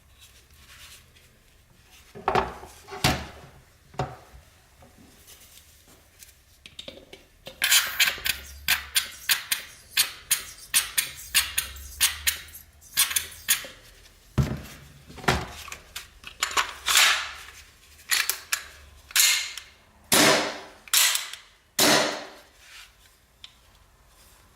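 ICS XAE gas blowback airsoft pistol making sharp clacks as its slide cycles. A few single clacks come first, then a quick run of about three a second, then more spaced single clacks near the end.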